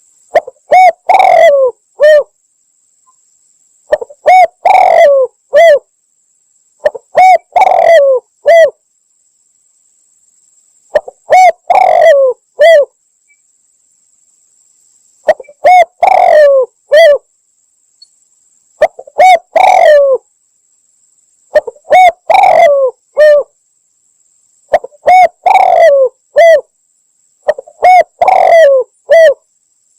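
Spotted dove (derkuku / tekukur) cooing loudly, a lure recording: repeated phrases of several coos, each phrase about two seconds long, coming again every three to four seconds, nine times in all.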